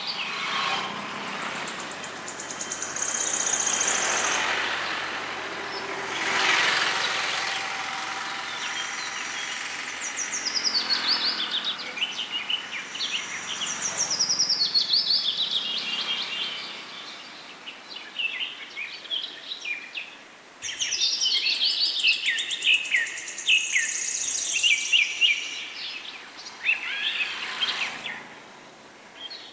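Small birds chirping and calling over and over, in quick series of short falling notes that crowd together in the second half. Under them runs a broad outdoor rush with a low hum, which fades out about twelve seconds in.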